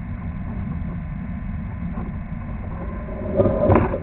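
Steady low mechanical rumble, with a brief louder clatter about three and a half seconds in.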